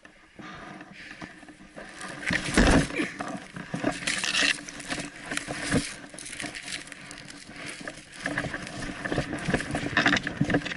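Irregular crunching and rustling of footsteps moving through dry brush and leaf litter, with the scrape of clothing and gear against vegetation. It grows louder about two seconds in.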